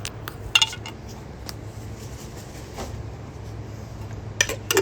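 Cockatoos' beaks cracking and handling nuts: a few scattered sharp clicks and knocks, the loudest about half a second in and a quick cluster near the end, over a low steady hum.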